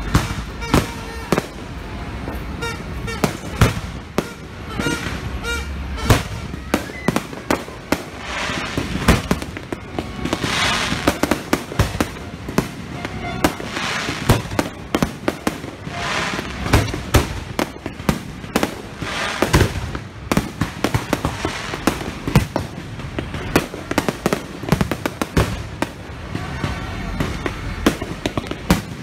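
Aerial fireworks display: a dense, irregular run of sharp bangs from bursting shells, several a second, with stretches of crackling in between.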